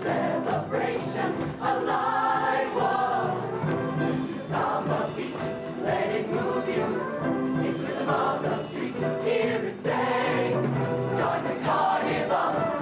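High school show choir of about forty voices singing in full chorus with its live band.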